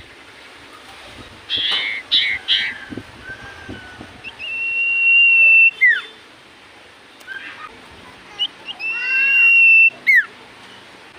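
Common iora singing: twice a long, steady high whistle that ends in a quick downward-swooping note, with shorter chirping notes before and between.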